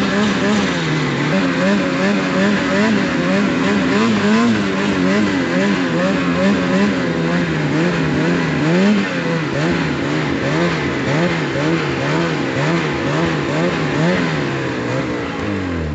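Snowmobile engine running hard, its revs rising and falling about twice a second, then winding down right at the end.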